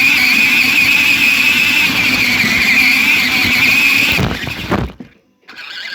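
Toy RC Jeep Wrangler's small electric motor and gears whining steadily as it drives, the pitch wavering slightly. The whine dies away about four seconds in and is followed by a brief near silence.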